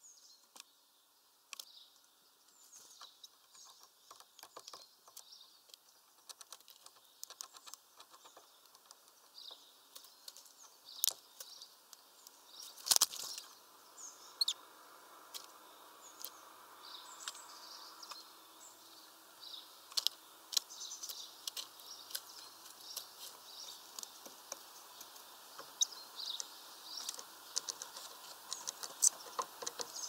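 Small birds calling with many short chirps, among irregular sharp taps and clicks, the loudest cluster about 13 seconds in.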